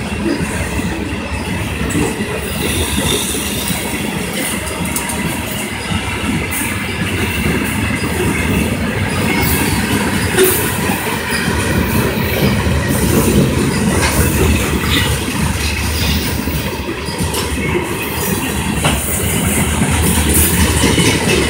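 A freight train of loaded hopper cars rolling past close by: a loud, steady rumble of steel wheels on rail, with occasional sharp clicks as the wheels cross rail joints.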